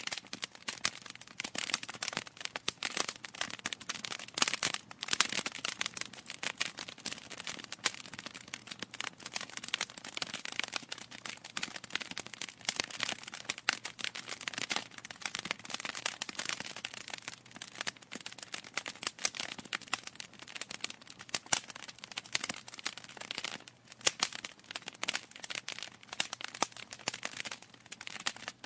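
Wood fire in a fireplace crackling: a steady hiss with dense, irregular pops and snaps from the burning logs.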